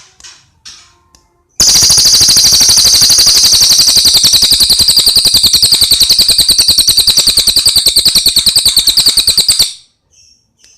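A cililin songbird sings one long, very rapid, even trill for about eight seconds, cutting off abruptly near the end. A few faint short calls come before it.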